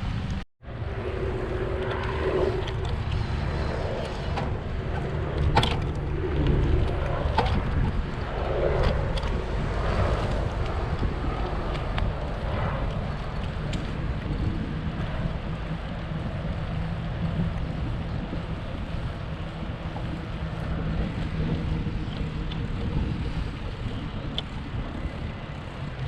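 Wind rumbling on the microphone of a moving bicycle, a steady low rumble with a few light clicks; the sound cuts out briefly about half a second in.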